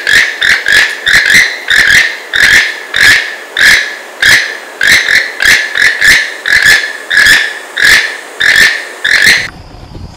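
Keel-billed toucan calling: one short call note repeated over and over, about twice a second and sometimes in quick pairs, cutting off abruptly near the end.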